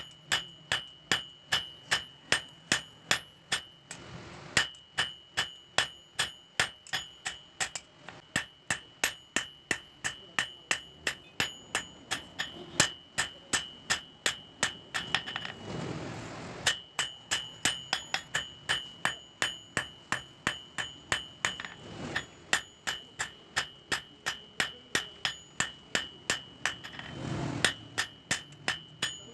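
Blacksmith's hammer striking steel on an anvil in a steady rhythm of about three blows a second, each blow with a high metallic ring. The hammering breaks off briefly a few times before starting again.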